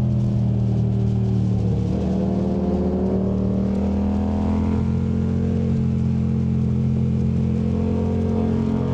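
2019 Yamaha MT-07 parallel-twin engine running through a Yoshimura AT2 Race exhaust while riding in one gear, its pitch rising and falling a little as the throttle is rolled on and off through the bends.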